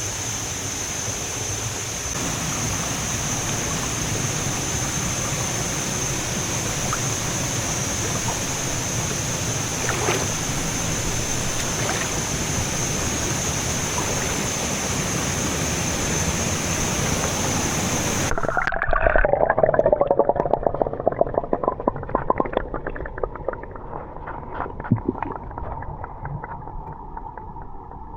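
Waterfall water rushing steadily, with a constant high-pitched whine above it. About eighteen seconds in, the sound abruptly turns muffled and gurgling, like a microphone dipping underwater.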